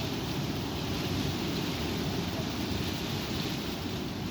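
Strong wind blowing and buffeting the microphone: a steady rumble with a hiss over it.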